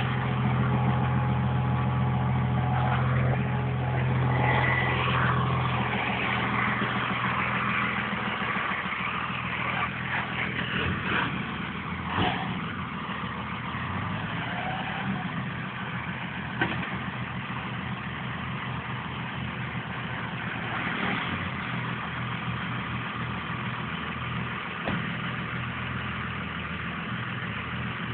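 Truck engine running, louder for the first five seconds or so and then settling to a quieter, steady run, with a couple of sharp knocks partway through.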